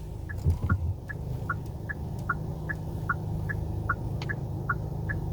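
Car turn-signal indicator ticking rapidly and evenly, about five ticks a second alternating between two pitches, over the steady hum of a moving taxi's cabin.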